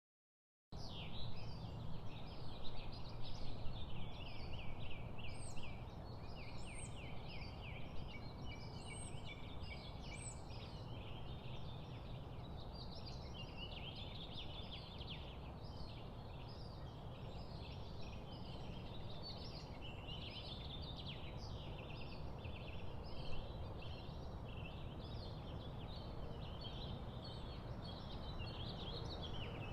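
A dense chorus of many birds chirping and trilling over a steady rushing background, starting abruptly just under a second in. The bird calls are loudest over the first five seconds, then settle into a steadier chatter.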